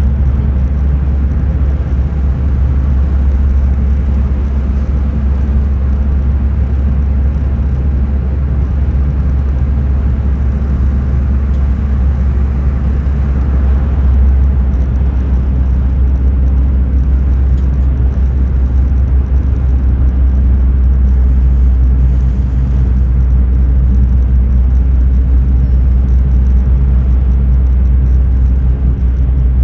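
Steady low rumble of a car heard from inside the cabin while driving, with no sudden sounds.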